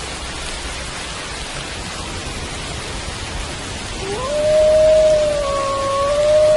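Steady rain falling; about four seconds in a wolf begins a long howl that rises quickly and then holds a steady pitch, with a fainter second howl joining a second later.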